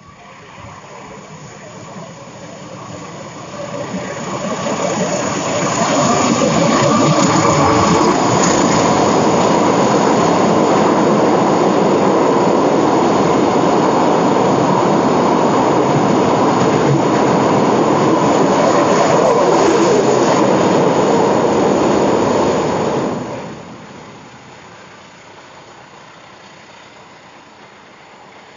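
Sawunggalih passenger train crossing a steel truss railway bridge, its wheels rumbling and clattering over the steel span. It builds over the first few seconds, stays loud and steady, then cuts off suddenly near the end.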